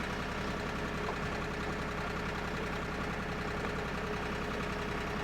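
Engine on a water-well drilling rig running steadily at an even speed, with a fast, regular pulsing and a steady hum.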